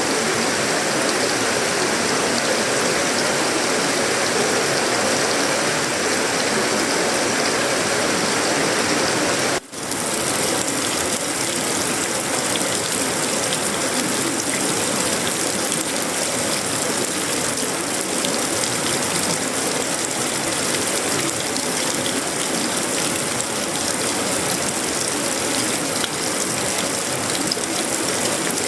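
Heavy tropical rain falling steadily on a sheet-metal roof, wood and leaves: a dense, even hiss full of small drop ticks. The sound briefly dips about ten seconds in.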